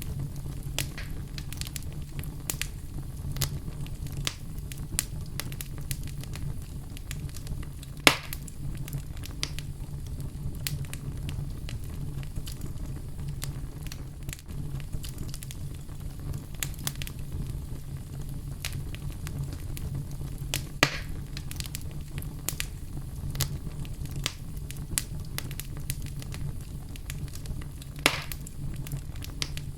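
Wood fire burning in a fireplace: a steady low rumble of flame with frequent small crackles and three sharper pops, the loudest about a third of the way in.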